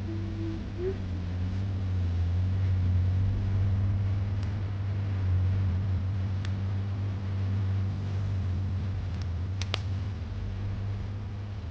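A steady low mechanical hum, like a small motor or engine running, with a few sharp ticks scattered through it and a brief pitched note near the start.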